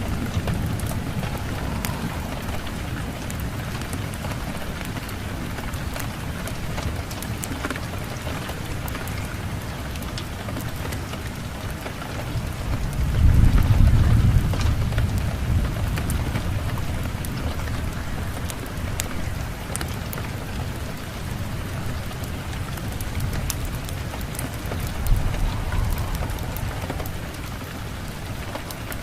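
Steady rain with a low rumble of thunder that swells to its loudest about halfway through and fades slowly. Scattered sharp crackles from a wood fire sit on top.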